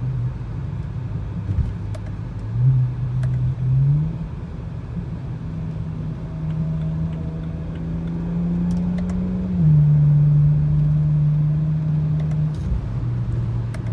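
BMW 335i's N54 twin-turbo straight-six with its mufflers deleted, heard from inside the car while driving: a steady exhaust drone. The pitch climbs a few seconds in, then steps down twice as the revs change, with the loudest stretch after the first step down.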